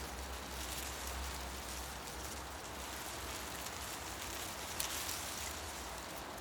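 Wind rustling through tree leaves in a forest: a steady hiss that swells and eases, over a low rumble. A single short tick sounds about five seconds in.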